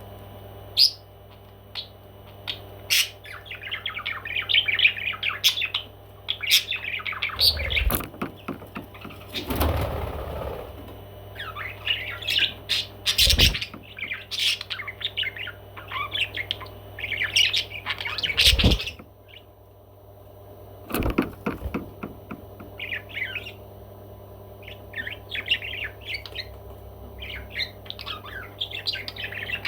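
Pet parrot chattering and squawking in quick, scratchy bouts, broken by a few sharp knocks, over a steady low hum.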